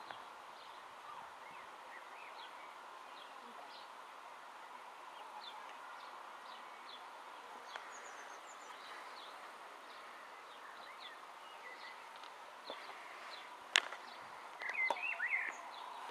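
Birds chirping over a steady background hiss, with scattered short calls throughout and a denser, louder run of chirps near the end. A single sharp click stands out shortly before that run.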